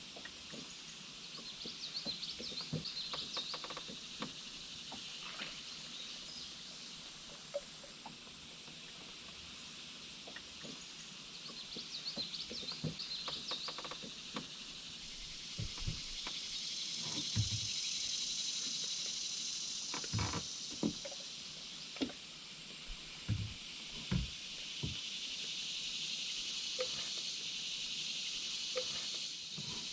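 A high, steady chorus of insects that swells and fades, with short pulsing trills twice in the first half. Scattered low knocks and splashes from a canoe paddle come mostly in the second half.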